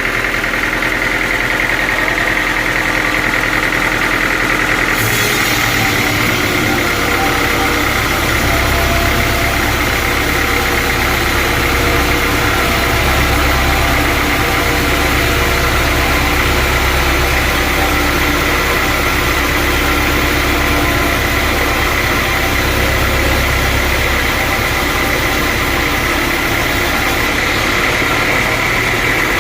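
Sawmill machinery running steadily, a motor with a steady high whine. The sound grows heavier and hissier about five seconds in and eases again near the end, as if the machine takes on a load and then lets it go.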